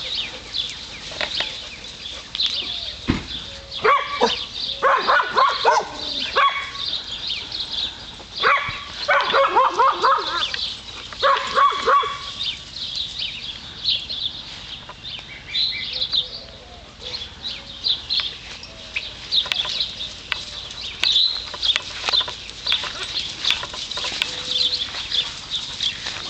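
Animal calls in three bouts of about one to two seconds each, with a steady high chirping behind them.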